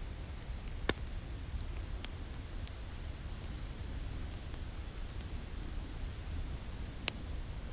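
A wood fire crackling, with scattered sharp pops, the loudest about a second in and again near the end, over the steady low rumble of winter wind.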